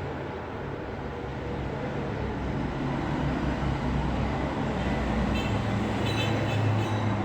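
Road traffic noise: a steady low vehicle rumble over an even hiss, with faint high squeals in the last couple of seconds.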